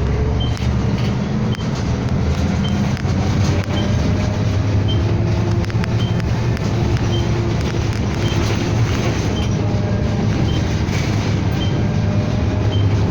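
Inside a moving city bus: a steady low engine rumble and road noise. A faint whine rises in pitch over the last few seconds, and a faint short high beep repeats about twice a second throughout.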